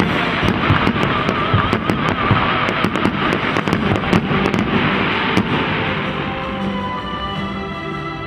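Fireworks display: a rapid string of shell bursts and crackling, thinning out after about five seconds. Music plays underneath and comes through more clearly near the end.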